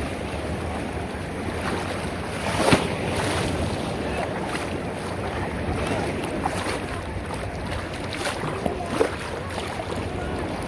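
Ocean surf washing in the shallows, with wind buffeting the microphone. Two brief sharp sounds stand out, one about a quarter of the way in and one near the end.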